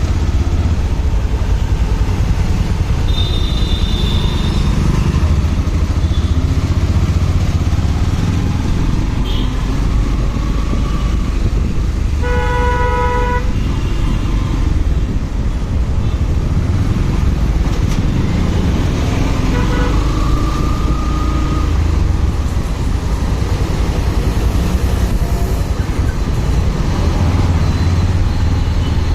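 Motorcycle ride: a steady low engine and road rumble. About twelve seconds in, a vehicle horn sounds once for about a second.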